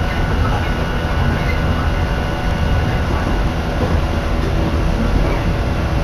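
Inside the passenger car of a Shinano Railway electric train running between stations: a steady, loud running rumble of the wheels on the track, with a faint steady hum above it.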